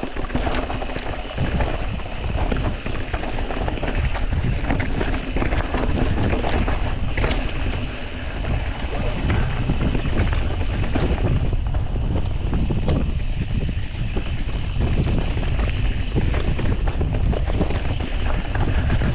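Wind buffeting the microphone of a camera riding on a mountain bike at speed downhill, with the tyres running over a rough dirt trail and frequent short knocks and rattles from the bumps.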